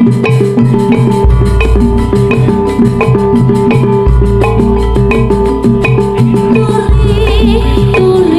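Loud amplified instrumental music for a jaranan horse dance: quick, steady drumming over held melody notes, with a deep bass note that comes in about a second in, drops out near the middle and returns near the end.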